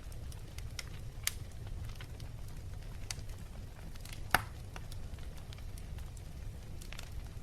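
Wood fire burning in a fireplace: scattered crackles and small pops over a steady low rumble, with a sharp louder pop about four seconds in.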